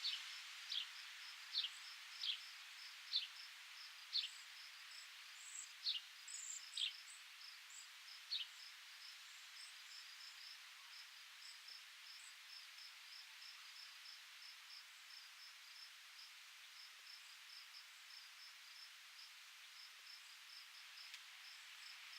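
Outdoor nature ambience: a soft steady hiss of breeze, an insect chirping in a fast even pulse throughout, and a bird giving a series of quick descending notes, about one a second, that stop around eight seconds in.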